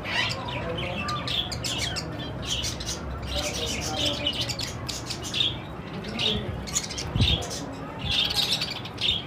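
Budgerigars chattering, with rapid overlapping chirps and squawks. A brief low thump comes about seven seconds in.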